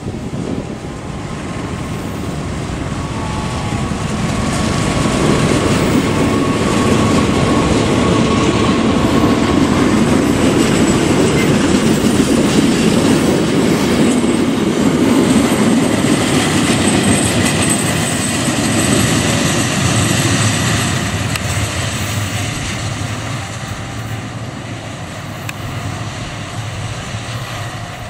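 Diesel-hauled Kirow railway crane train passing close by on ballasted track. The rumble and clatter of its wheels on the rails builds for several seconds, is loudest mid-way as the heavy crane wagons roll past, then fades away. A thin steady whine sounds over the first few seconds as the locomotive approaches.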